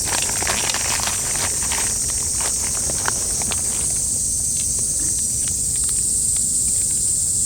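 Insects singing in a steady high chorus, with a scatter of small clicks and rustles over it, thicker in the first half.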